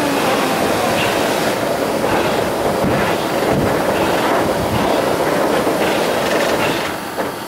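A train rolling along the rails, a steady running noise that eases slightly near the end.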